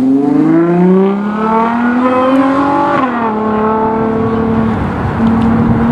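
Ferrari 812 GTS's V12 accelerating away, its pitch climbing for about three seconds, dropping sharply at an upshift, then holding steady.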